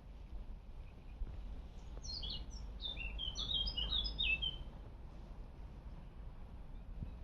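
A songbird sings one quick phrase of sharp, mostly falling chirping notes, starting about two seconds in and lasting a little over two seconds, over a steady low rumble.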